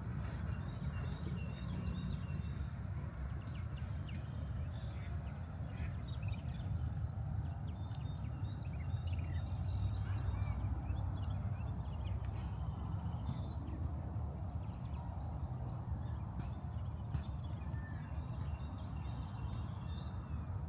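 Park ambience: birds chirping and calling throughout, one high call coming back every few seconds, over a steady low rumble of distant city traffic, with the light steps of someone walking.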